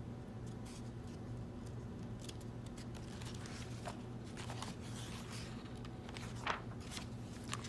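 Soft paper rustles and small clicks, scattered over a few seconds, from the pages of a picture book being handled and turned, over a steady low hum.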